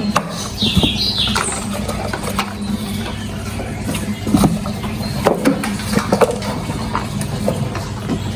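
Toy vehicles being handled: scattered light clicks and knocks, irregularly spaced, over a steady low hum. A brief high squeak comes about a second in.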